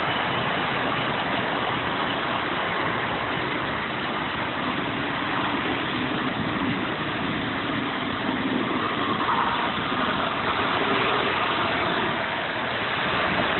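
Model train running on its layout: a steady mechanical hum and rumble with no break.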